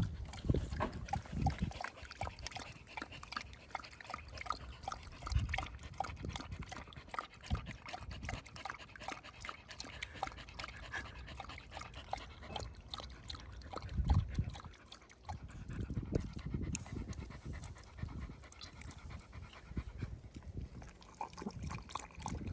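A thirsty dog lapping water in a quick, continuous run of wet laps after a long walk.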